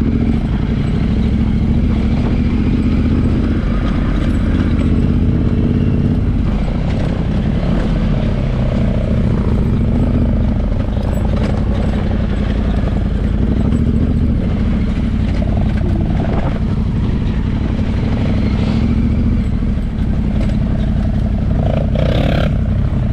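Yamaha Ténéré 700's parallel-twin engine running steadily as the bike is ridden along a rough off-road track.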